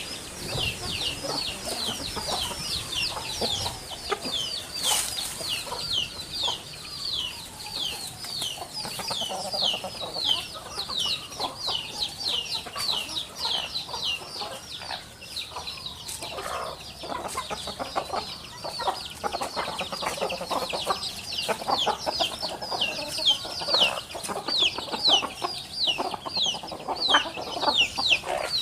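Birds calling: a steady, fast run of short, high, falling chirps, about two to three a second, over lower clucking calls.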